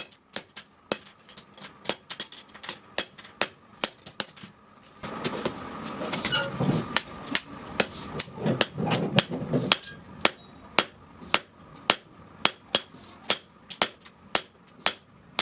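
Blacksmith's hammer striking steel on an anvil in a steady rhythm, about two to three ringing blows a second. A louder rushing noise rises under the blows for about five seconds in the middle.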